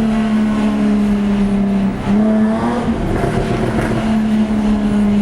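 Jaguar F-Type S's supercharged 3.0-litre V6 running at steady revs under way, with a brief dip and a short jump in pitch about two seconds in.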